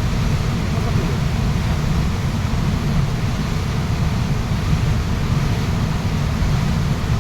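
Waterfall's rushing water, a steady loud noise weighted toward the low end, with no breaks or changes.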